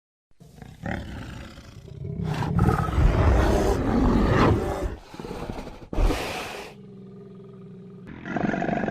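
A large animal roaring: a long, loud roar about two to five seconds in, then a shorter burst about six seconds in.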